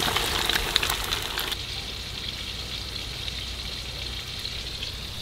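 Battered walleye fillets frying in hot oil in a pan, a crackling sizzle with many small pops. About a second and a half in it drops suddenly to a quieter, steady sizzle.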